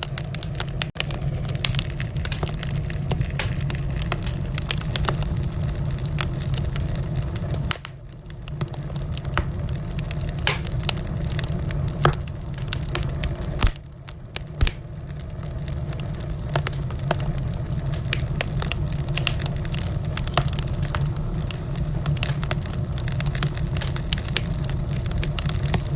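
Wood fire in a fireplace crackling and popping continuously over a steady low rumble, with a few sharper, louder pops near the middle.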